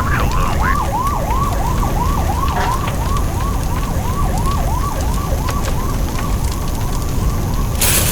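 Fire-engine siren in fast yelp, its pitch rising and falling about three times a second, over a steady low rumble of fire. A sudden loud hiss starts just before the end.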